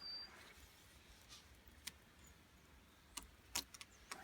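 Near silence: quiet outdoor ambience with a few faint, brief clicks and a single very short high chirp at the start.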